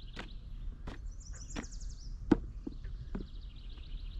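Footsteps on a woodland trail, about one every 0.7 seconds, the loudest a little past two seconds in, with high rapid trills of birdsong behind them.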